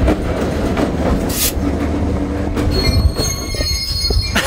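Mauritania Railway iron ore freight train rolling on the rails with a steady low rumble; from about three seconds in, a high, thin squeal of steel wheels on the rails rides over it.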